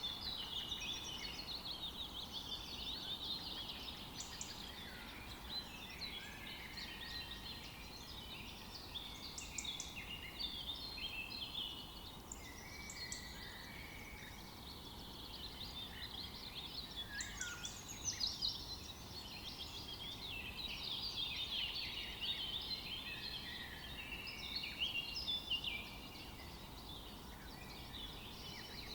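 Many songbirds chirping and singing at once: a dense chorus of short, high, overlapping calls and quick trills that never stops, over a faint low background hiss.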